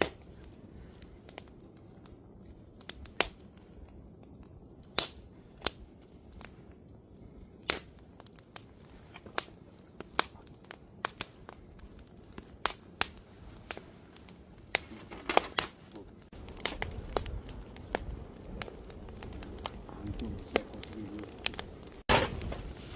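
Wood campfire crackling, with sharp pops at irregular intervals. A low rumble joins in past the middle.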